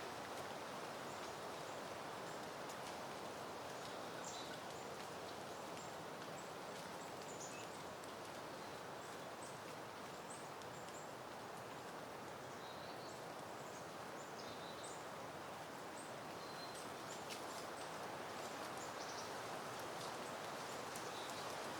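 Soft, steady wind rustling through peony foliage and blooms, with faint high chirps of small birds scattered throughout.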